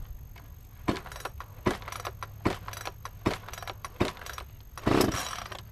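Echo chainsaw's recoil starter cord pulled about five times in quick succession, a short rattling rasp roughly every second, then one longer, louder pull near the end; the engine does not catch.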